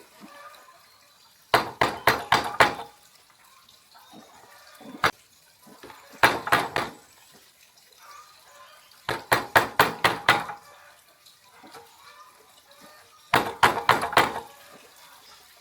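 Bursts of rapid knocking, each about six to eight quick strikes in a second or so, repeated four times, every three to four seconds.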